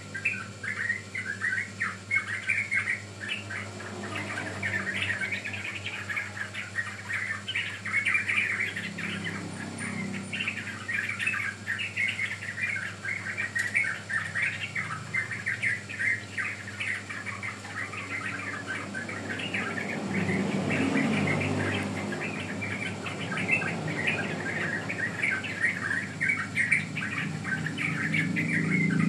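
Young yellow-vented bulbuls (trucukan) chirping in a rapid, unbroken chatter of short high notes.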